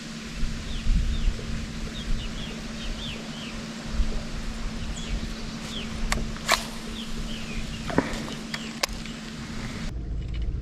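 Small birds chirping repeatedly over a low outdoor rumble, with a steady low hum and a few sharp knocks about six and nine seconds in. The hum stops abruptly near the end.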